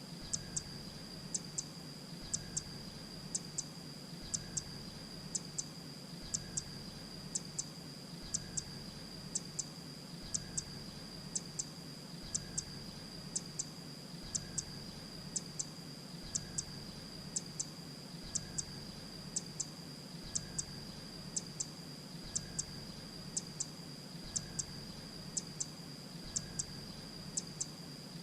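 Grey-breasted prinia calling: short, sharp, high double notes repeated a little more than once a second in a steady series, over a faint steady high-pitched tone.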